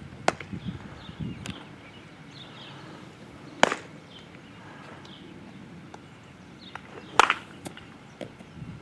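Sharp knocks of fielding practice, a ball struck with a bat and caught in a glove: two loud cracks about three and a half seconds apart, with a few lighter knocks around them.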